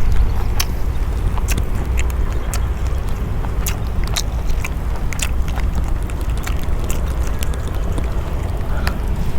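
Steady low rumble, like wind buffeting the microphone, with scattered sharp crackles and ticks about once or twice a second.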